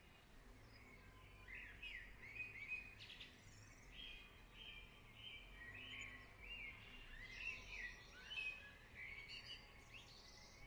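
Faint birdsong: small birds chirping in short, repeated notes, with a run of even, evenly spaced notes in the middle.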